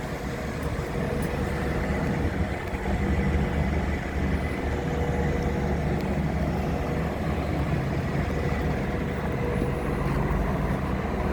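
Steady low rumble of a road vehicle's engine running, with a faint steady hum over it and no sudden events.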